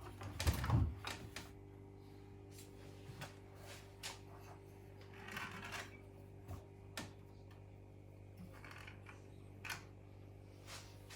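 Light handling clicks and knocks, with a louder clatter about half a second in and a few brief scrapes later, over a steady low hum.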